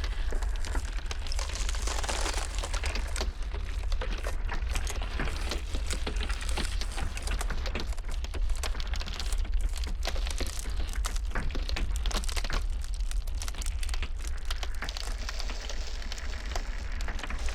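Ice cracking and popping in a dense, irregular crackle, over a steady low wind noise of a blizzard.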